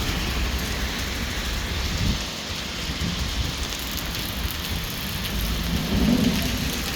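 Steady rain falling, an even hiss, with a low rumble underneath that swells about six seconds in.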